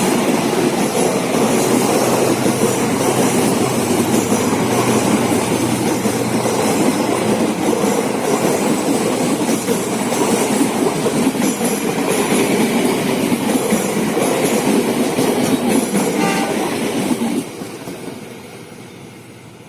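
A passenger train's cars running past on the rails with a loud steady rumble and wheel clatter, dropping away sharply about seventeen seconds in as the last car passes.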